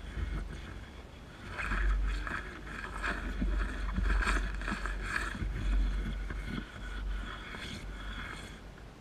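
Car engine running at a standstill, heard from inside the cabin, with the windscreen wiper scraping back and forth across mud-smeared glass.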